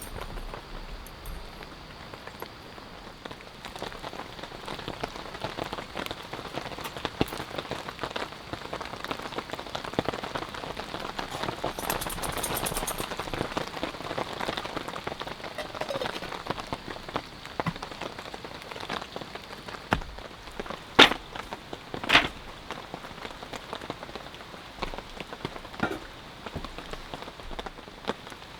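Steady rain falling, with many small drop ticks throughout, and two sharp knocks in quick succession about three quarters of the way through.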